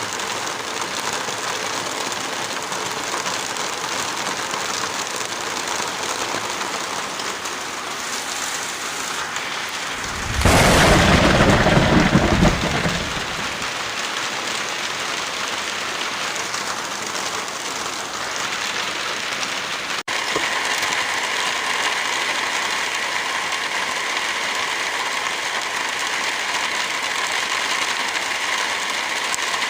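Steady heavy rain, with one loud, deep burst about ten seconds in that lasts about two seconds. About two-thirds of the way through, the rain briefly drops out and comes back with a changed, brighter texture, as if a different rain recording has been spliced in.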